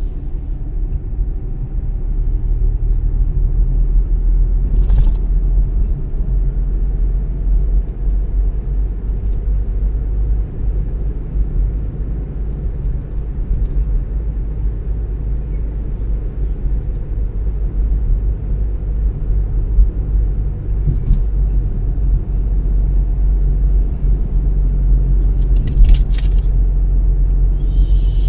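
Car interior road noise while driving: a steady low rumble of tyres and engine, with a few brief clicks or rattles.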